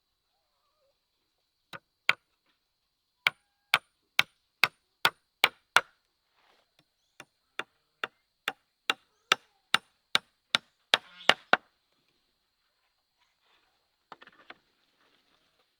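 Repeated sharp chopping strikes of a tool into wood, about two a second, in two runs with a short pause between them, then stopping; a brief faint rustle follows near the end.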